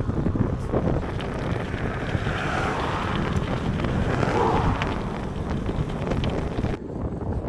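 Wind buffeting an action camera's microphone while riding a road bike, a steady rumbling rush. A vehicle passes about three seconds in, and the high hiss drops out suddenly near the end.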